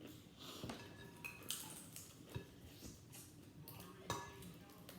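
Eating sounds from a seafood boil: chewing and handling the food, with scattered soft clicks and a few light clinks.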